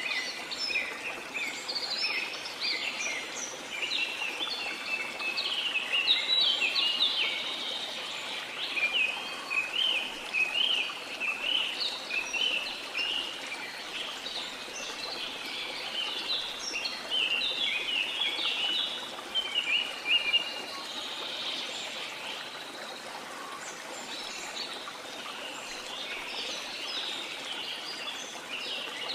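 Many birds chirping in a dense, overlapping chorus over the steady rush of a waterfall. The birdsong thins for a few seconds past the middle and picks up again near the end.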